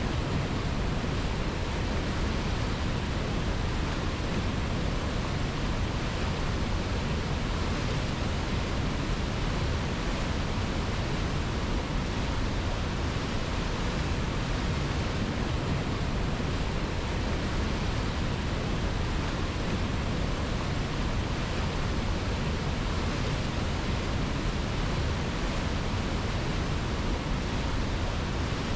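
A river's rushing water as an even, unbroken noise, with no pitch and no change over the whole stretch.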